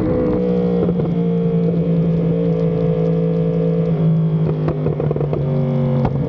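Yamaha R1M's crossplane inline-four running through an SC-Project exhaust, heard on board the bike at steady throttle. Its note holds, then sags slowly, with short breaks in the tone about a second in, around four to five seconds, and just before the end.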